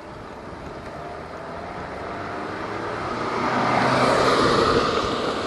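A car approaching from behind and passing, its engine and tyre noise building to a peak about four seconds in and then easing off.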